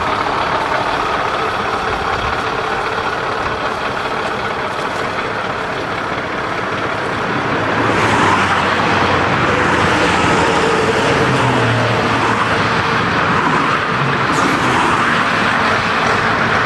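Scania V8 diesel truck engine running, getting louder about halfway through.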